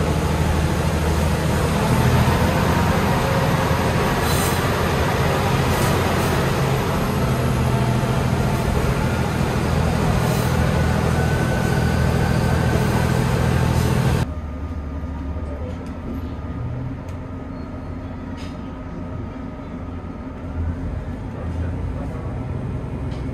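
Diesel sightseeing train running, heard from inside a passenger car: a steady rumble of wheels on rail and engine hum, with a few sharp rail-joint clacks. About 14 s in the sound cuts to a quieter car, where the running noise goes on softer with occasional faint clacks.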